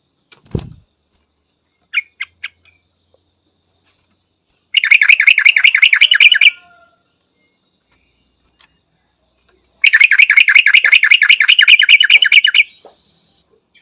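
Yellow-vented bulbul calling: a few short notes, then two long runs of rapid repeated chattering notes, about ten a second, each lasting two to three seconds. A dull thump sounds about half a second in.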